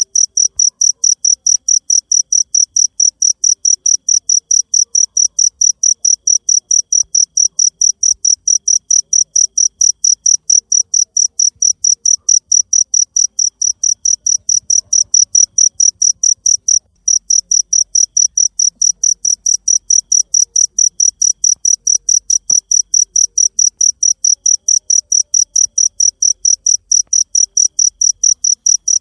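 A cricket chirping steadily in a fast, even rhythm of high-pitched pulses, about three a second, with a brief break about two-thirds of the way through.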